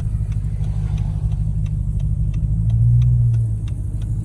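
Car running on the road, heard from inside the cabin: a steady low engine and road hum that swells briefly about three seconds in, with a faint regular ticking about three times a second.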